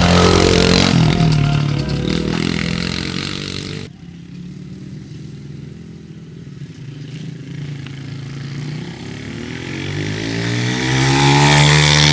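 Pit bike engine running and revving. The sound cuts off abruptly about four seconds in to a quieter engine, which then rises in pitch and grows louder near the end as a bike revs up and comes closer.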